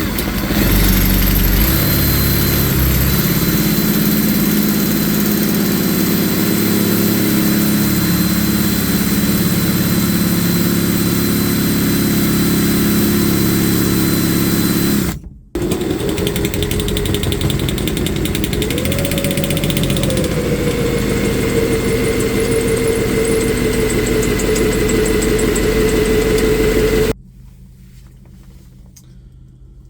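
A motor running steadily with a thin high whine. It stops for a moment about halfway through, steps up in pitch soon after, and cuts off abruptly near the end.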